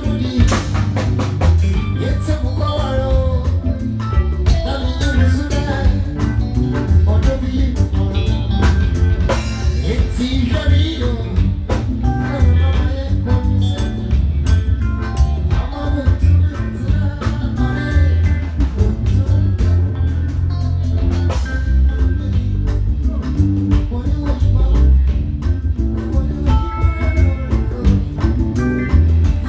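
Live band playing at a sound check: drum kit, heavy bass and guitar with singing over it, loud and continuous.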